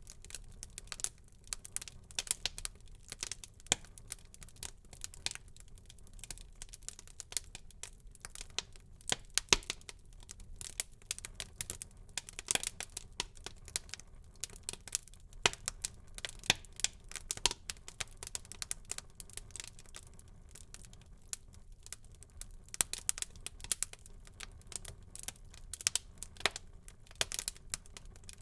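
Wood fire in a fireplace crackling, with irregular sharp pops and snaps several times a second over a faint low rumble.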